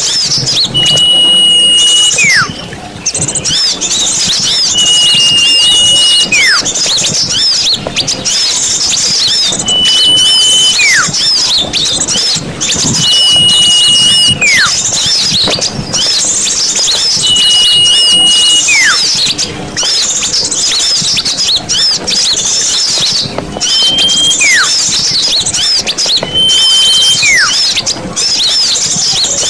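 Small-bird lure recording: a dense chorus of many small birds chirping and chattering in rapid high calls, over which a clear whistle repeats about every four seconds, each a held note of about a second that ends in a falling glide.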